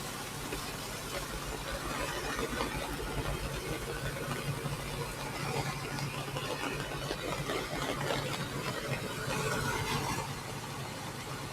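An engine running steadily at an even speed, with a low hum under a constant rushing noise.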